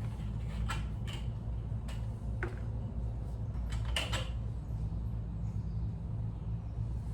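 A few light clicks and knocks of small parts being handled during carburetor work, over a steady low hum.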